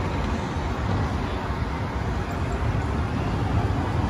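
Slinky Dog Dash roller coaster train running along its track: a steady, loud rumble of the wheels mixed with wind noise.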